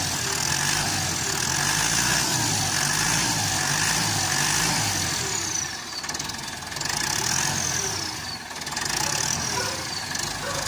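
Turbocharged diesel engine of a Massey Ferguson 265 S tractor running, with an aftermarket turbo fitted. In the second half the revs drop three times, and each time the turbo's high whistle falls in pitch as it spools down.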